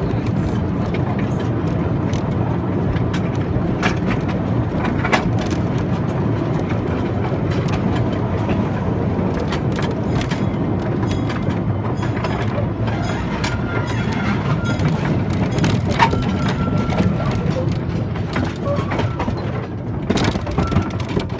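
A vehicle in motion: a steady low rumble with scattered clicks and rattles.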